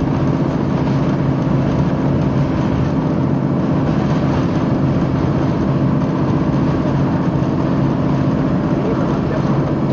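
Passenger train running, heard from inside the carriage: a steady diesel engine drone over the continuous running noise of the train.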